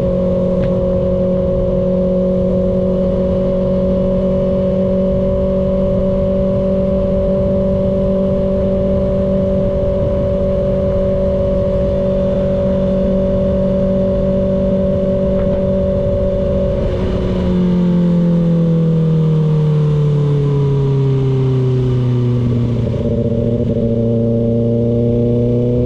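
Kawasaki ZX-6R inline-four engine cruising at steady revs under a steady rush of wind noise. About two-thirds of the way through, the revs fall away for several seconds, then climb slowly again near the end.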